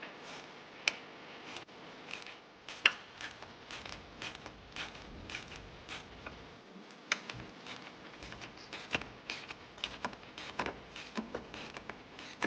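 Irregular light clicks and taps of handling, with a few sharper ticks among them.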